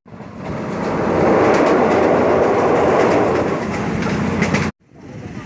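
Passenger train running along the track, with a steady rumble and rattle of the moving carriage. It cuts off suddenly near the end, then comes back quieter.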